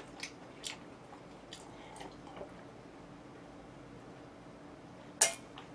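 Quiet mouth sounds of eating black-bean noodles: soft chewing with a few small wet clicks, then one short, sharper smack a little after five seconds in.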